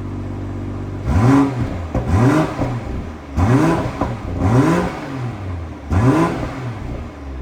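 2022 BMW M440i's 3.0-litre turbocharged straight-six, stock, idling and then revved in about five quick throttle blips with the car standing still, each one rising and falling in pitch. This is shortly after a cold start.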